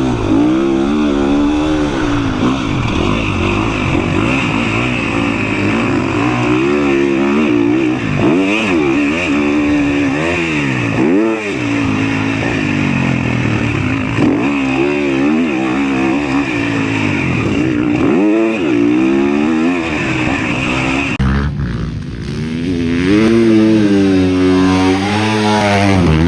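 Motocross dirt bike engine, heard close from a camera on the rider, revving up and down over and over as the bike accelerates, shifts and backs off through jumps and turns.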